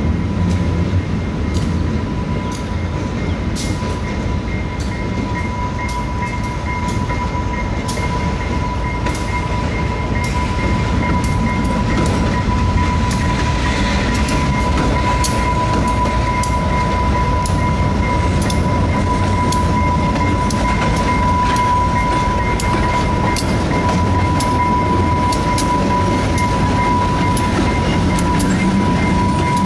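GE B23-7 diesel locomotive running as it hauls freight cars, a low rumble with irregular clicks of wheels over rail joints. A steady high-pitched tone sounds over it.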